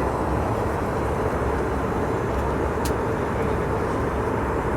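Steady engine and airflow noise inside an airliner's cabin, with a single short click about three seconds in.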